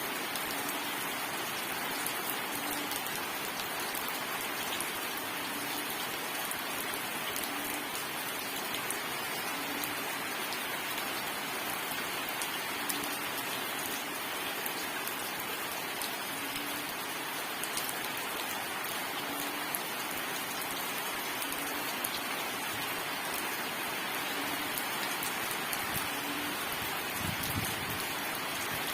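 Steady rain falling onto a surface, with scattered sharp drop clicks. A faint short low note recurs every second or two, and there is a soft low thump near the end.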